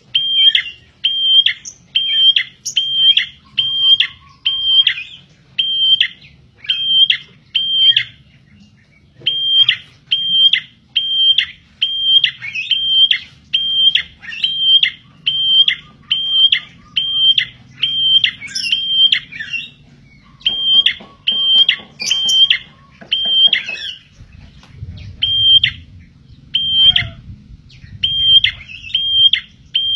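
A prinia (prenjak) giving its 'tilek' call: one sharp, high note repeated about twice a second in long runs, broken by short pauses. Faint, lower trills from another bird come in now and then.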